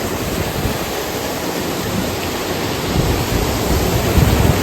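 Waterfall rushing: a steady, full hiss of falling water, with wind buffeting the microphone in low rumbling gusts from about three seconds in.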